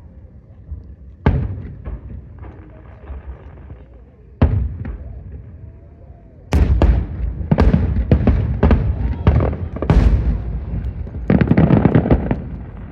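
Aerial fireworks bursting: single sharp bangs about a second in and again about four seconds in, then a rapid volley of bangs with crackling for about six seconds, the finale barrage.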